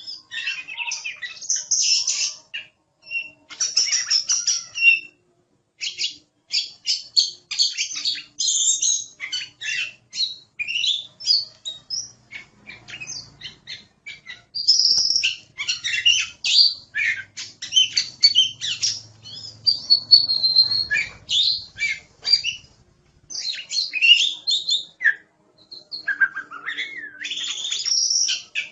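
Oriental magpie-robin (kacer) singing a rapid, varied song of clear whistles and chattering notes, with short pauses about five and twenty-three seconds in.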